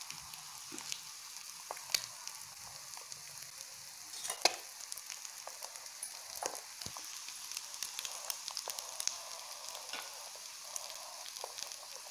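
Masala-coated boiled eggs frying in ghee and oil in a non-stick pan: a steady sizzle with scattered sharp crackles, the loudest about four and a half seconds in.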